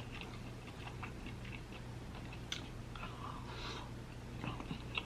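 Faint chewing and small clicks from eating seafood, with a couple of sharper clicks about halfway and near the end, over a steady low hum.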